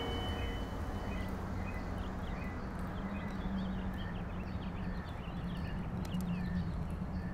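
Outdoor ambience of a steady low hum with birds chirping faintly throughout.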